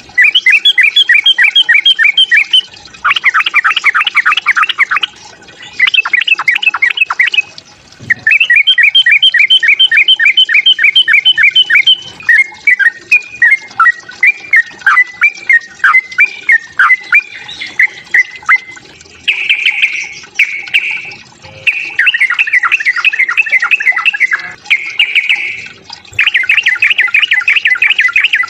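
Yellow-vented bulbul giving its excited fighting call: loud bursts of fast, rapidly repeated chattering notes, a few seconds each. Partway through they give way to a longer warbling run of notes.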